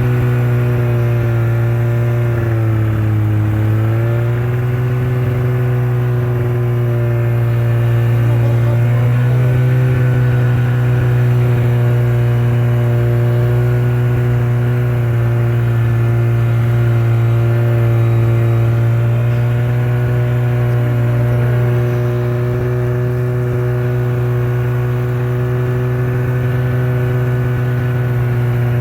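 Motorcycle engine running steadily under way. Its pitch dips briefly about three seconds in, then holds even.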